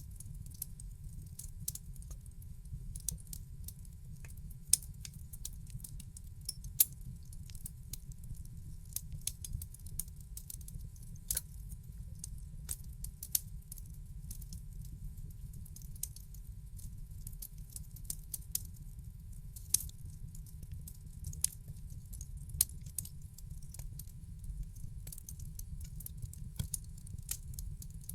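Wood fire in a fireplace crackling: irregular sharp pops and snaps over a steady low rumble, with a few louder pops standing out.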